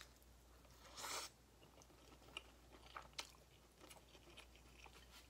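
Faint chewing of wheat noodles, with small wet mouth clicks, and one short airy sound about a second in.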